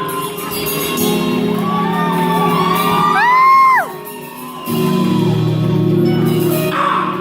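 Live band playing an instrumental passage in a large hall. About three and a half seconds in, a loud held high note slides up and falls away. The low end then drops out for under a second before the full band crashes back in.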